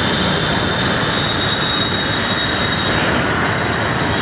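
Steady rush of wind and road noise while riding a Bajaj Pulsar 200NS motorcycle in traffic, with a thin, steady high whine running through it.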